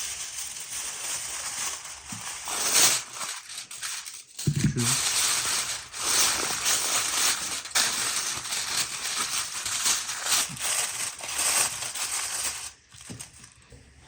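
Irregular rustling and crinkling handling noise, with short scrapes and knocks.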